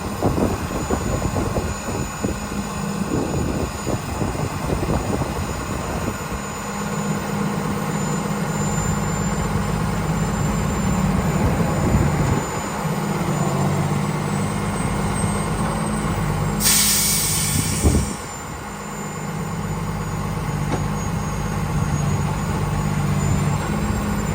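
Diesel engine of a 2009 Freightliner Business Class M2 truck running steadily. About two-thirds of the way through, a loud hiss of released air from the air brakes lasts about a second and a half and ends in a thump.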